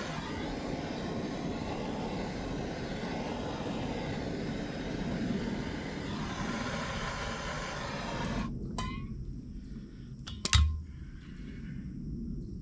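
Water rushing out of an opened water line in a steady hiss that cuts off suddenly about eight seconds in. A few sharp knocks follow, the loudest a heavy thud about ten and a half seconds in.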